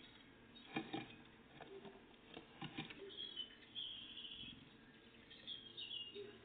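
Small songbirds calling in two short high phrases, the first about three seconds in and the second near the end, with a few soft knocks and taps in the first three seconds.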